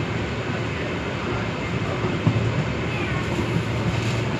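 Express passenger train coach running along the track, heard at its open doorway: a steady rumble of wheels on rail, with a sharper knock about two seconds in.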